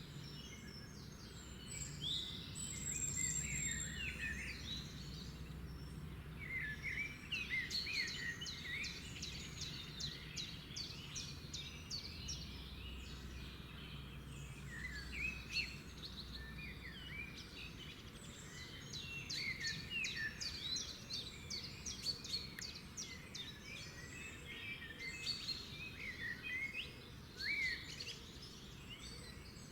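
A chorus of several songbirds singing and chirping over one another, with runs of rapid trilled notes, over a faint steady low hum.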